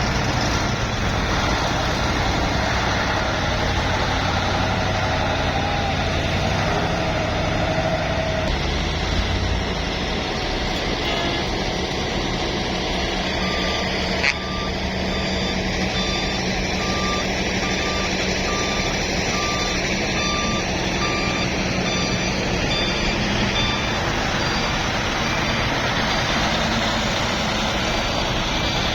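Heavy diesel truck engines running steadily, with a reversing alarm beeping about once a second through the middle stretch.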